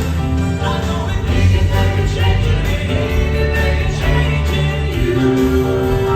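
Live southern gospel quartet singing in close harmony over a band with a strong bass.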